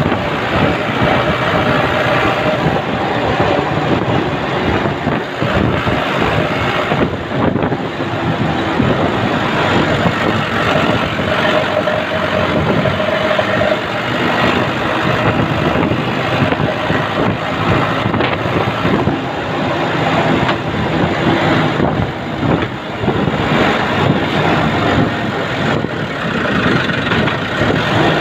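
Military truck's engine running with road and rattle noise, heard from on board the moving truck; a steady loud mix with a faint constant tone running through it.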